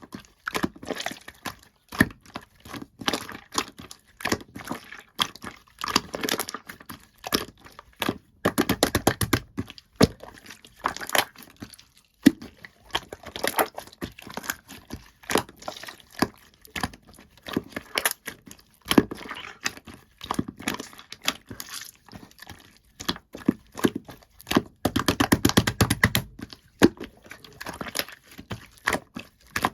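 Slime being squished, poked and stretched by hand, making a steady run of small wet pops and crackles, with denser bursts of popping about nine seconds in and again near twenty-five seconds.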